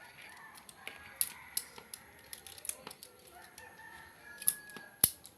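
Light clicks and rattles of the saw chain and small parts being handled while the chain is fitted onto a mini electric chainsaw, with one sharp click about five seconds in. A rooster crows faintly in the background.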